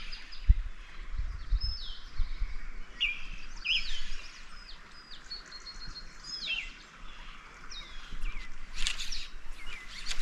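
Several songbirds calling: repeated short chirps and quick falling whistled notes, with a few low thumps in the first two seconds.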